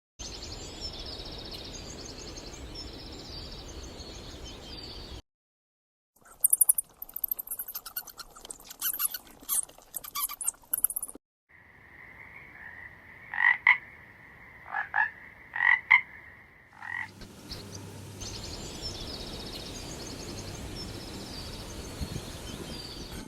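Frogs calling in a series of short clips: a chorus of high chirping calls, then a fast run of clicks, then a steady high trill broken by several louder pulses, then the chirping chorus again. Brief silences fall between the clips.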